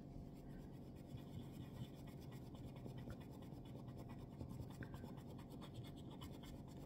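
Faint, scratchy rubbing of a straight razor blade being hand-polished, buffing out staining left on the steel by the scale.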